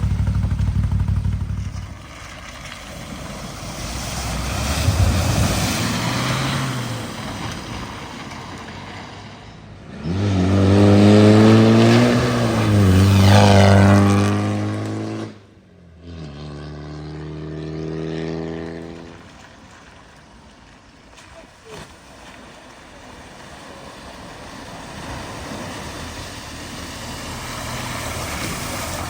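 Car engines driving through a flooded ford: one engine revs up about ten seconds in and runs loud for several seconds before cutting off abruptly, then a second engine passes more quietly.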